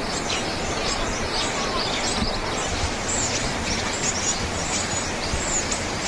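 Small birds calling: a dense run of short, quick high chirps over steady outdoor background noise.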